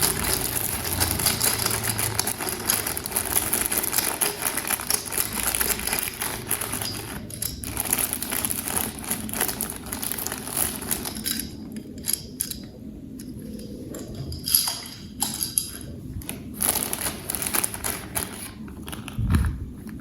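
Plastic packaging crinkling and rustling continuously as it is handled, thinning after about eleven seconds into scattered clicks and rustles.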